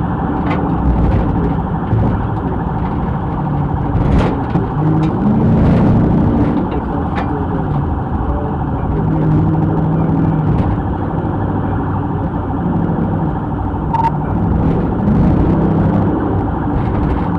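Police Dodge Charger's engine running hard and revving as it follows a fleeing pickup, heard from inside the car over steady road and tyre noise; the engine note climbs twice, about five seconds in and near the end.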